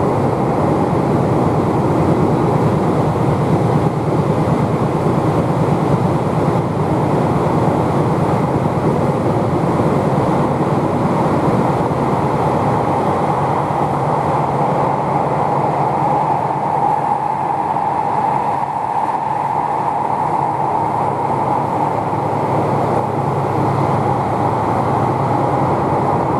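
Tokyu 3020 series electric train running at speed, heard from inside the car: a steady rumble and wheel noise. A steady tone joins it about two-thirds of the way through.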